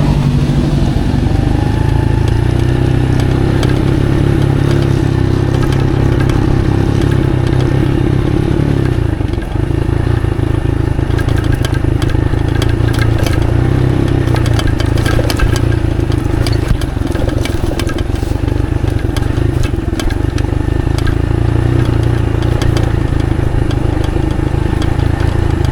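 Motorcycle engine running steadily while riding, its note dipping briefly about nine seconds in, with scattered clicks and clatter through the second half.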